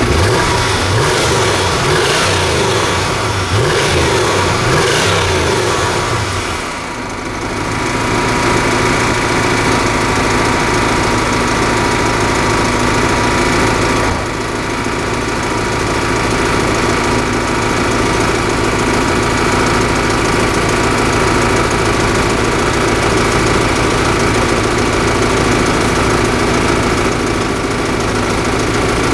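A 1994 Chevrolet Impala SS's 5.7-litre LT1 V8 is revved several times in the first six seconds, then settles to a steady idle.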